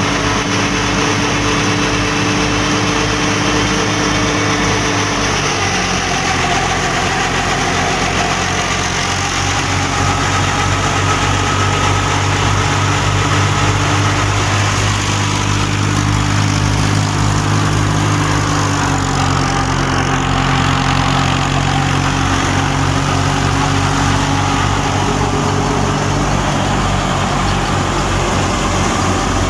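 Fiat 480 tractor's diesel engine running steadily while driving a wheat thresher. The engine note drops slightly about five seconds in and again near twenty seconds, as the load changes.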